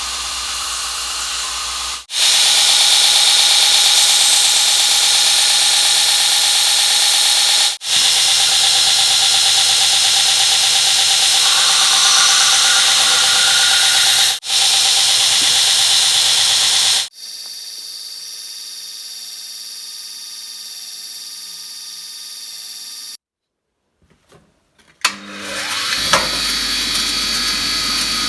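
Workshop power tools running in a string of short edited clips. There is steady loud grinding hiss with a hum under it, a quieter, steadier machine tone in the middle, a brief drop to near silence, and then a machine starting up again near the end.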